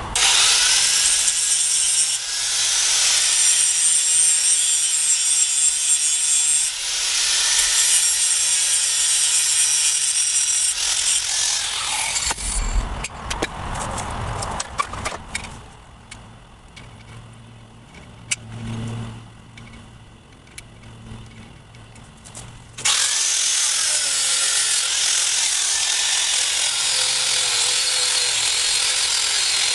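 Angle grinder grinding steel, the motor's whine wavering as the load changes. It stops about twelve seconds in, leaving a lull with a few clicks and knocks, and starts grinding again about ten seconds later.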